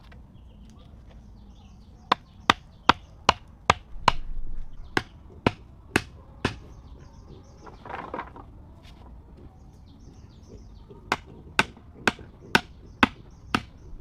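Rapid chopping with a blade on a hard surface: sharp, even strikes about two to three a second, in three runs separated by pauses, the longest pause in the middle; faint bird chirps behind.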